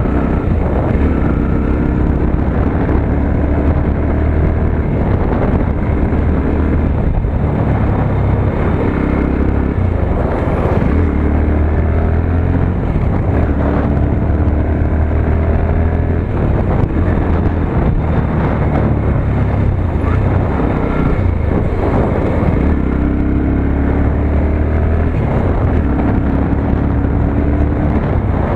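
Motorcycle engine running under way, its pitch rising and falling again and again with the throttle.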